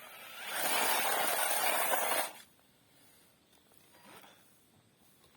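A loud hiss rises about half a second in, runs for nearly two seconds and cuts off sharply, leaving only a faint background.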